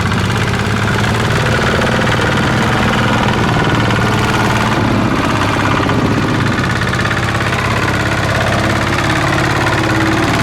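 Engine of a rice-field machine running steadily and loud, with a low, even engine note throughout.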